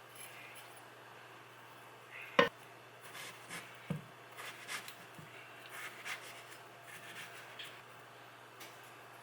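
Kitchen handling sounds: a sharp knock about two and a half seconds in, a duller thump at about four seconds, then scattered light taps and clicks.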